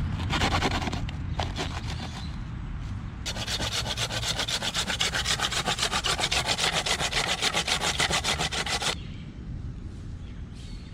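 Quick, even rasping strokes on wood, about five a second, from about three seconds in until near the end, after a few seconds of irregular scraping and rubbing.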